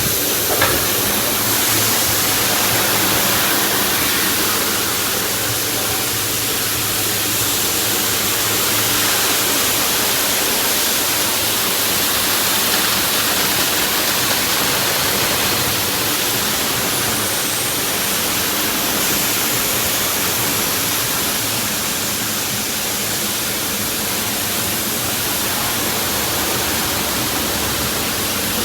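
Automatic car wash spraying high-pressure water over the car in a steady, even rush of spray.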